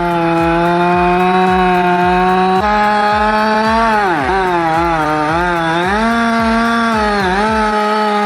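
Two-stroke chainsaw running at full throttle with a steady high engine note. About four seconds in, and again near the end, the pitch sags and recovers as the chain bites into wood under load.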